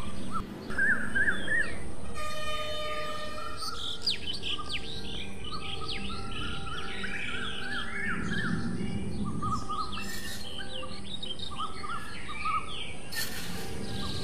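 Small birds chirping, many short calls overlapping.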